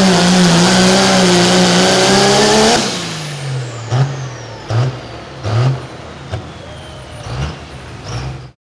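Diesel pulling truck engine running flat out under load, then dropping off throttle about three seconds in. A high whine falls in pitch while the engine idles with about six short throttle blips, and the sound cuts off abruptly near the end.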